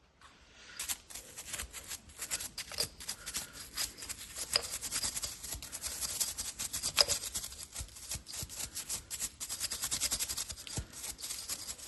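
Rapid dry scratching, rustling and clicking at the engine's wiring harness as crumbled old plastic is worked loose and cleared out, starting about a second in.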